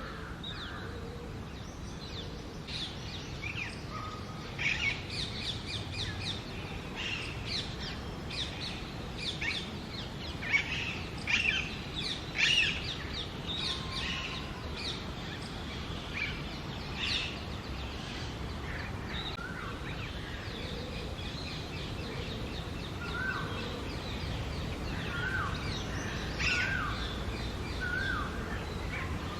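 Female Alexandrine parakeet calling: clusters of short, sharp, high calls through the first half, loudest in the middle, then a run of short repeated notes about a second apart near the end.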